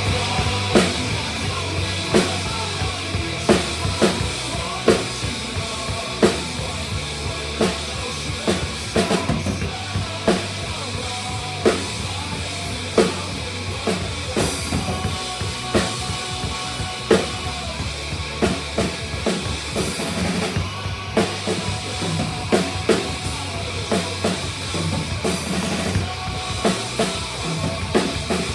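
Drum kit playing a steady rock beat of kick and snare over the band's recorded guitars and bass, with a few cymbal crashes.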